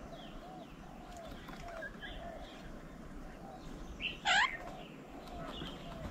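Several birds calling: many short repeated chirps and chatter, with one loud, harsh call about four seconds in.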